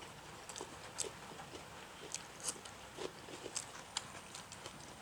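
A person chewing a mouthful of chicken dum biryani: irregular wet mouth clicks and smacks.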